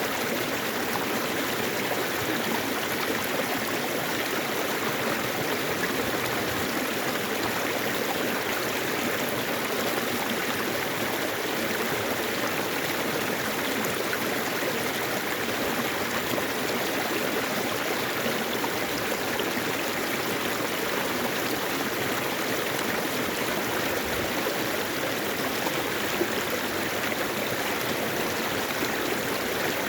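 Mountain-valley stream running over rocks, a steady rushing and gurgling of water.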